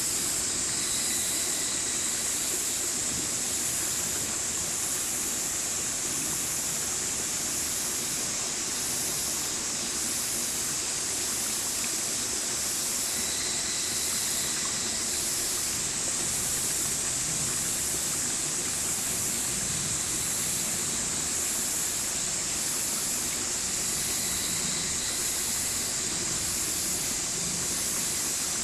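Stream water running steadily, a continuous hiss of flowing water that keeps an even level.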